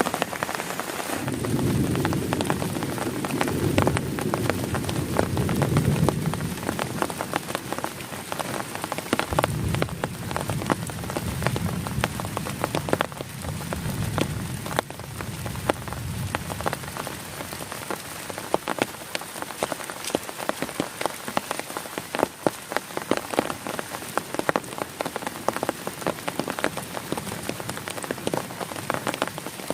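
Heavy rain falling on a tent, with dense individual drop strikes throughout. Thunder rumbles low in the background in the first half, from about a second in and again around ten seconds in.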